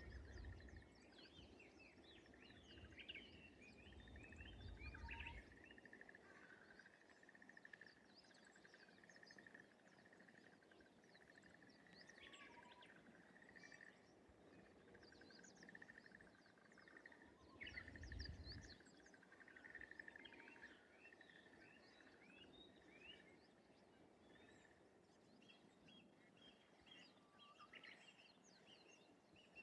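Faint countryside ambience by rice paddies: many short bird chirps and calls over a steady, fast rattling trill that fades out about three-quarters of the way through. There are a few low rumbles near the start and again about two-thirds in.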